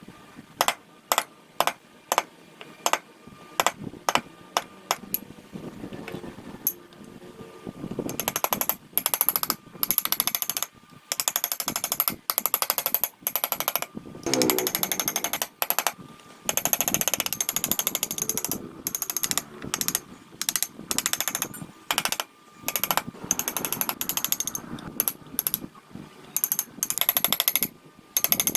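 Woodworking on a wooden car body: sharp single strikes about twice a second, then from about eight seconds in a power carving tool running on the wood in bursts of a second or two with a rapid hammering rattle.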